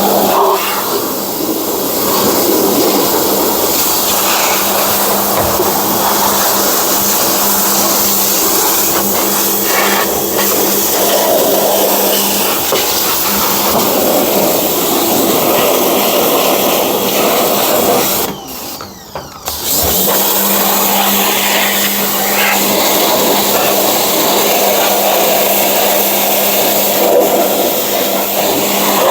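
Small pressure washer running and spraying water in a steady hiss over a pump hum. About two-thirds of the way through, the spray and hum cut out for a second or so, then start again.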